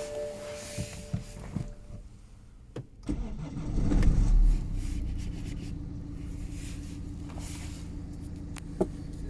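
A steady electronic chime tone fades out, then about three seconds in the BMW 525d's 2-litre twin-turbo four-cylinder diesel is started: a short surge as it fires, settling into a steady idle.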